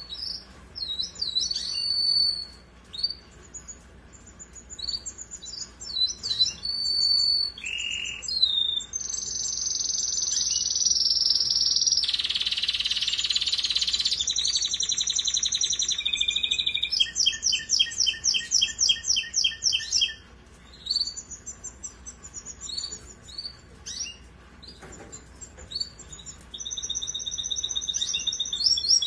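Domestic canary of the Russian song type singing a long, varied song: quick chirps, long held whistled tones and rapid trills of repeated notes, with brief pauses between phrases.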